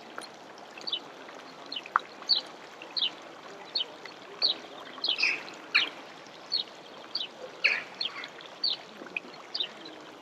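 A bird calling over and over, short downward-sliding high chirps about one and a half a second, over a steady background hiss.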